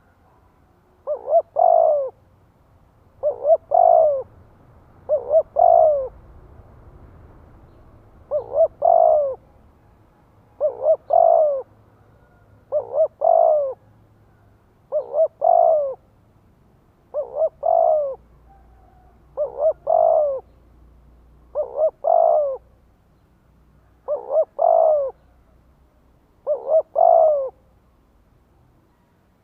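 Spotted dove cooing. About a dozen phrases come roughly every two seconds, each two short notes followed by a longer coo.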